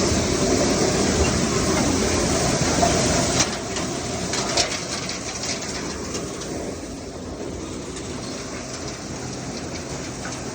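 Maize thresher running, a steady mechanical rattle and clatter with scattered sharp knocks. It drops somewhat in loudness about three and a half seconds in.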